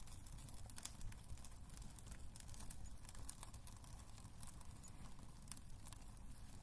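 Quiet wood fire crackling in a fireplace: irregular sharp snaps and pops, several a second, over a steady low rumble.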